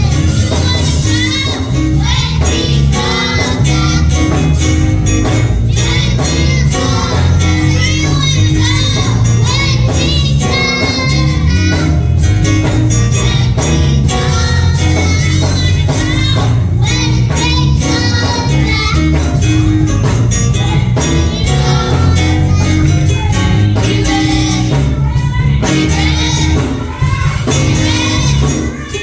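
Live gospel worship song: voices singing over band accompaniment with a steady bass line.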